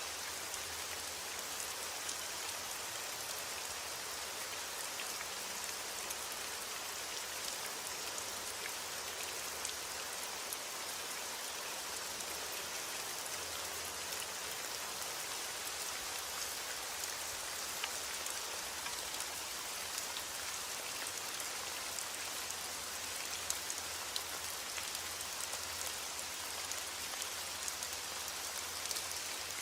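Steady rain: an even hiss with many separate drop ticks scattered through it, and a faint low rumble underneath.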